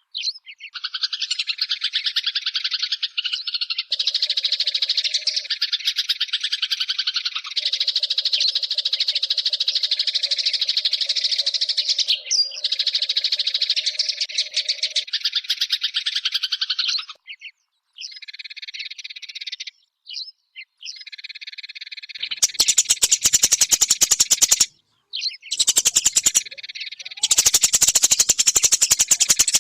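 Eurasian tree sparrow (burung gereja) chirping in rapid, near-continuous runs of high notes, with short breaks midway and harsher, clicking chatter near the end.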